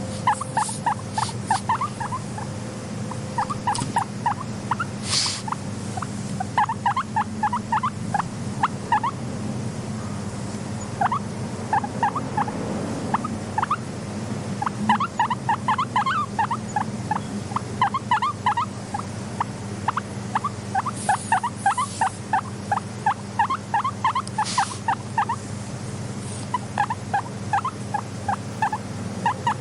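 Guinea pig squeaking in runs of short, quick calls, several a second, with brief pauses between runs, over a steady low hum.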